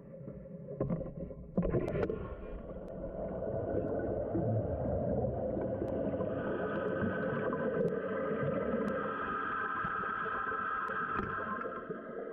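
Toilet flushing: a few clicks, then water suddenly rushing through the tank about a second and a half in. From about six seconds in, a steady hiss with a whine joins it as the fill valve refills the tank.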